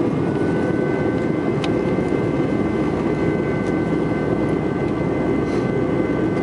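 Steady cabin noise inside a jet airliner on approach: the engines and the rush of air make an even, low roar, with thin steady whines on top. A second, lower whine joins about two seconds in.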